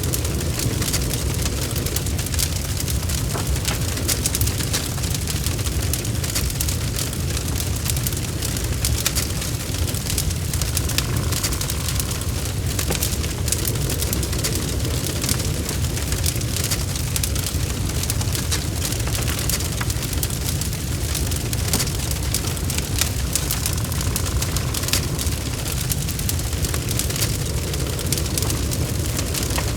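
Log fire burning in a fireplace: a steady low roar with frequent small crackles and pops.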